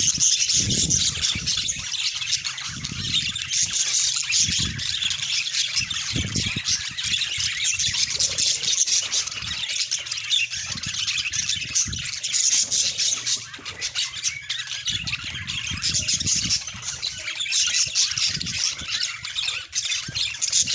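Budgies chattering and squawking without a break, a dense high-pitched warble, with scattered low bumps underneath.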